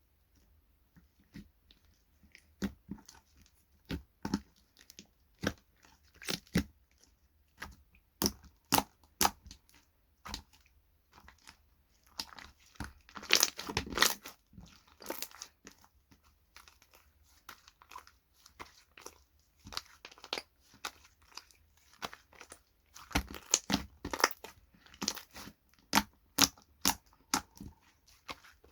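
Slime being squeezed, pressed and stretched by hand, giving irregular sharp clicks and pops, with two longer crackly stretches, one about halfway through and one later on.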